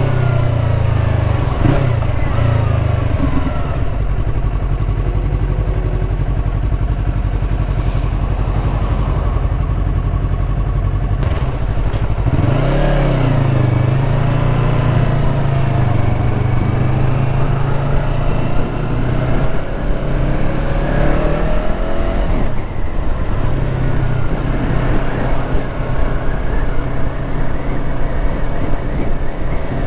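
Yamaha R3's parallel-twin engine running as the motorcycle is ridden. The engine pitch falls and rises again about twelve seconds in, and once more about twenty-two seconds in.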